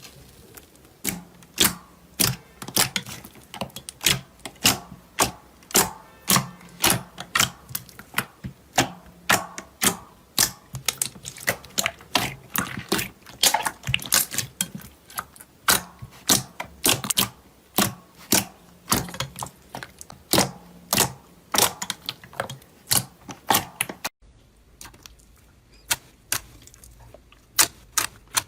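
Crunchy craft material being pressed and crushed, giving a fast run of sharp, crisp clicks and crackles, about two to three a second, that stops abruptly near the end.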